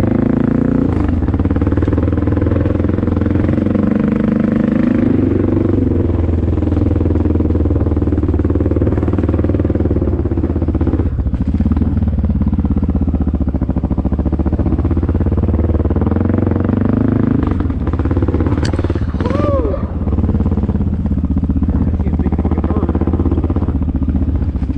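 Honda XR650L single-cylinder four-stroke dirt bike engine running under way on a trail ride, its revs rising and falling with the throttle. A short rising-and-falling squeal sounds about three quarters of the way through.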